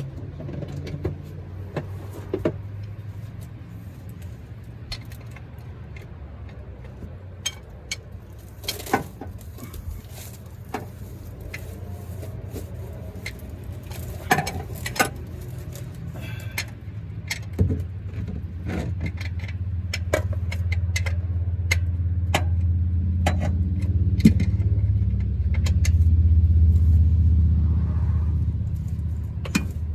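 Hand tools and metal parts clinking and clanking in scattered, irregular knocks during work on a truck's driveline, over a steady low hum that grows louder in the second half.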